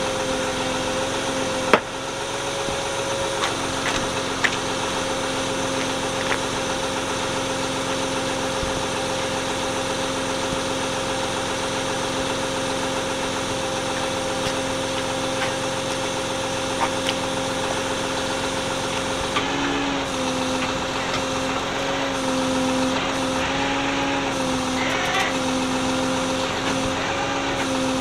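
Engine idling steadily at one held pitch, with a few sharp clicks in the first few seconds. In the last third the pitch wavers slightly up and down.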